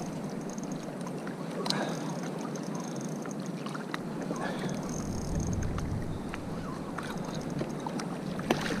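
Steady wash of sea water and wind around a kayak, with occasional small knocks and clicks from handling gear aboard.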